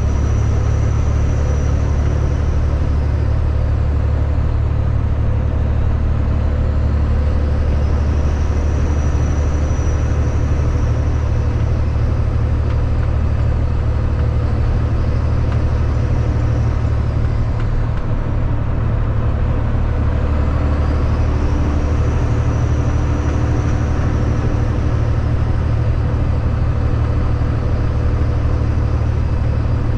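Kenworth W900 semi truck's diesel engine running steadily under way: a constant low drone, with a higher hiss of road and wind noise that swells and fades a few times.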